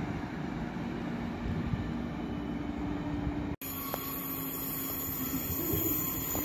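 Train running at the station: a steady rolling rumble with a faint low steady tone. About three and a half seconds in, the sound breaks off abruptly at an edit, and the rumble carries on after it.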